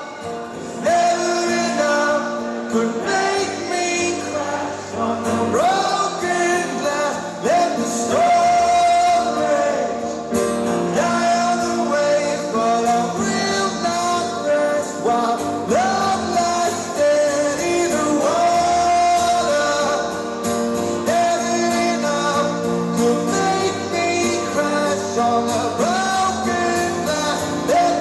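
A live band playing a slow rock song with sung vocals held over sustained chords.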